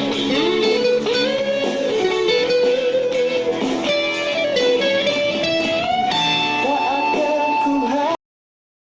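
Guitar playing a lead melody with string bends and sliding notes, cutting off suddenly about eight seconds in.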